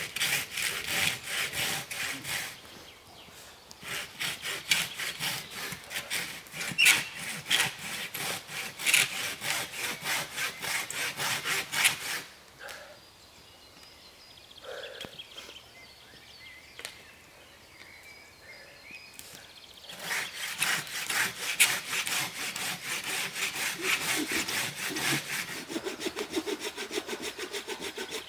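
Hand saw cutting through wood in quick, regular back-and-forth strokes. The strokes come in two long runs, with a pause of several seconds in the middle.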